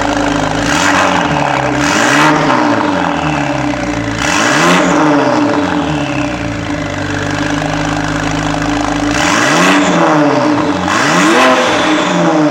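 Porsche 997 Turbo's twin-turbo flat-six running through an aftermarket FVD exhaust shortly after a cold start, revved up and back down four times between steady idle.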